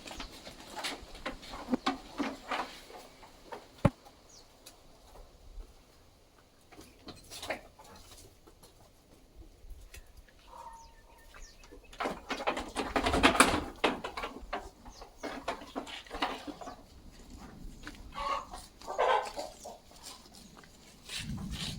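Sheep moving about in a farm pen: scattered hoof steps and rustling, a sharp knock about four seconds in, and a short animal call a little before the end.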